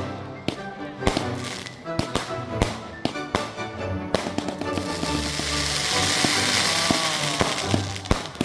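Fireworks going off over background music: repeated sharp bangs, with a few seconds of hissing crackle in the middle.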